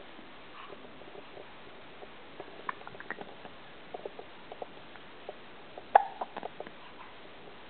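A small animal making short, scattered squeaks and clicks, the loudest about six seconds in.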